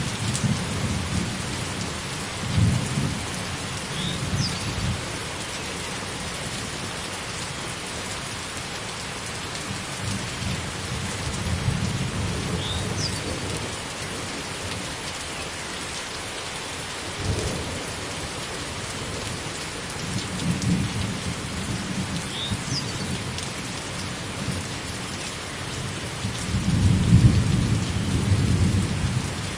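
Thunderstorm: steady heavy rain falling, with thunder rumbling again and again, the loudest rumble near the end.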